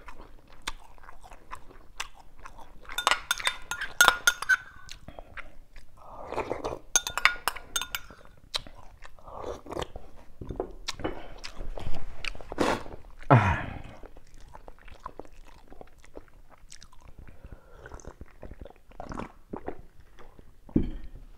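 Close-miked eating sounds: chewing mouthfuls of rice and pork-stuffed cucumber soup, with clinks of a metal spoon against a ceramic bowl.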